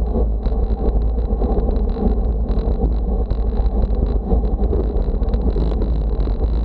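Wind buffeting the microphone: a steady heavy low rumble with constant gusty noise, and a faint steady high tone underneath.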